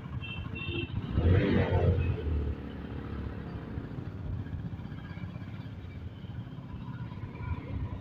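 Road noise from a motorcycle ride through traffic: steady low engine and wind rumble. There are two short high beeps near the start, and a louder vehicle sound with a falling pitch about a second in.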